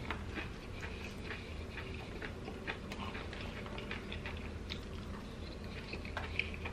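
Close-up chewing and lip-smacking while eating chili cheese fries, made up of many small, irregular clicks and wet smacks, with light clicks of a fork in a plastic takeout bowl.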